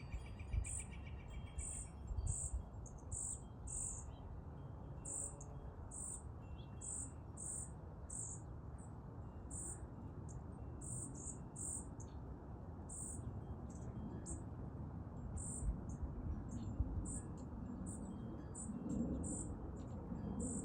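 Baby bird's begging calls: short, high-pitched chirps repeated about once or twice a second, the calls of a hungry nestling asking for food. A steady cricket trill is also heard and stops about two seconds in.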